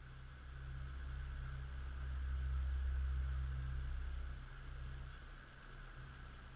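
A deep low rumble that swells for a few seconds and fades away, over a steady low hum and faint hiss.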